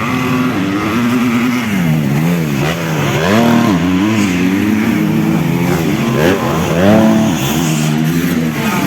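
250cc motocross bike engines racing round a dirt track, revving up and dropping again and again as the riders accelerate, shift and back off for jumps and corners.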